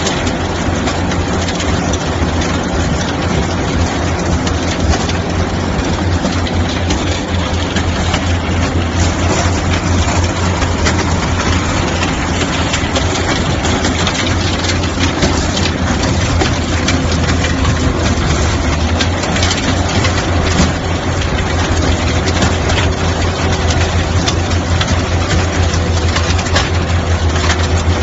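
Skid steer loader's engine running steadily, with a strong low hum and constant mechanical noise.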